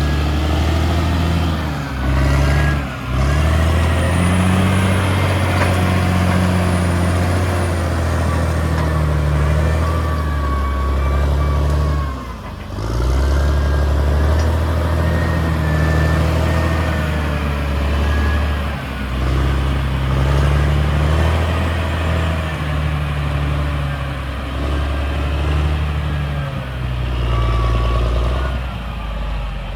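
Caterpillar D6R XL bulldozer's diesel engine running under working load, its pitch stepping up and down every few seconds, with faint wavering squeals above it.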